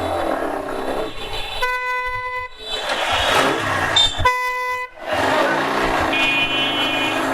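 Vehicle horn honking twice in traffic, each honk a steady buzzy tone of under a second, about three seconds apart, over the rush of riding wind and traffic noise. A second, higher-pitched horn sounds briefly near the end.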